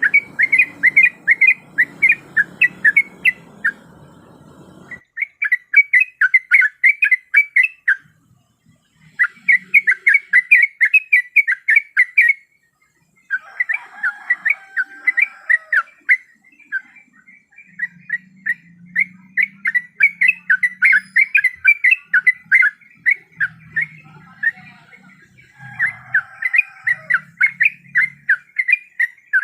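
Yellow-vented bulbul (trucuk) calling: rapid runs of short, bubbly notes in phrases of a few seconds, broken by brief pauses, played as a lure call.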